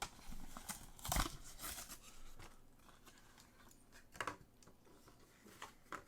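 Hands handling small objects: faint crinkling and rustling with a few clicks in the first two seconds, then a few isolated light clicks and taps.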